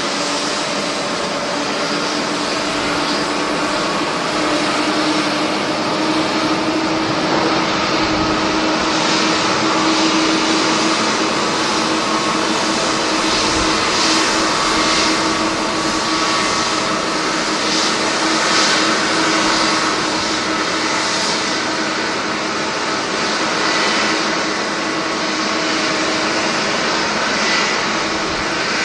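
Jet airliner engines running with a steady, loud jet noise over a low hum, swelling a little around the middle.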